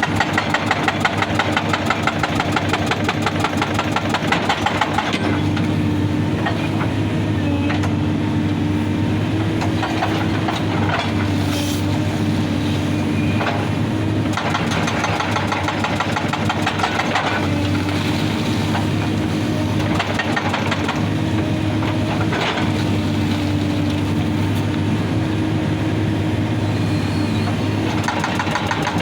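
Excavator diesel engine running steadily while its hydraulic rock breaker hammers rapidly for the first several seconds and again near the end, with scattered single knocks of the chisel on rock in between.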